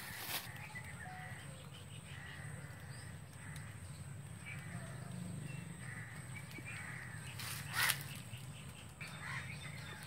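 Birds calling now and then, with a sharp knock just after the start and a louder knock about eight seconds in.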